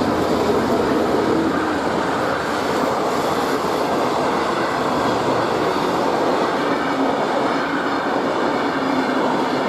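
Diesel-hauled train, the heritage pair A66 and X31, passing over the level crossing with a loud, steady rumble of locomotives and wheels on the rails.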